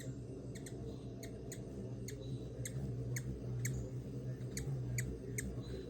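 Hummingbird giving short, high chip notes, about a dozen in a loose irregular series of roughly two a second, over a steady low hum.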